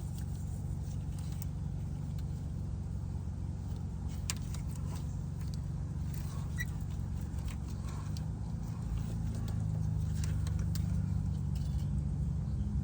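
A motor vehicle engine idling steadily, with a few light clicks of tools on metal; the idle grows a little louder about eight seconds in.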